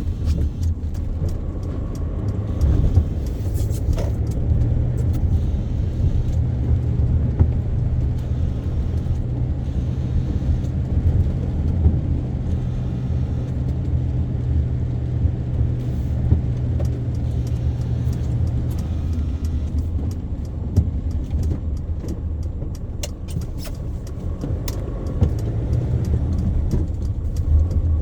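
A car driving in traffic: a steady low engine and road rumble, with scattered small clicks and rattles. A low hum in the rumble drops away about two-thirds of the way through.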